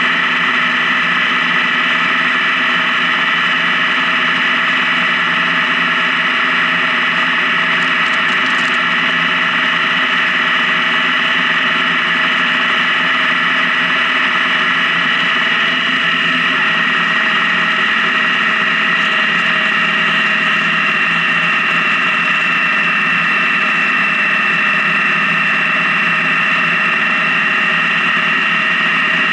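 Honda Gold Wing motorcycle engine running steadily at cruising speed, its pitch creeping up slightly in the second half.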